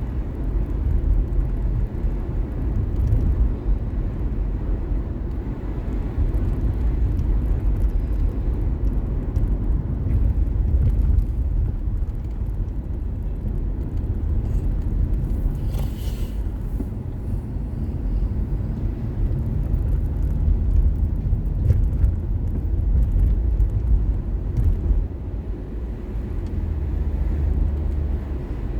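Steady low rumble of a car driving: road and engine noise heard from the moving vehicle, with a brief hiss about halfway through.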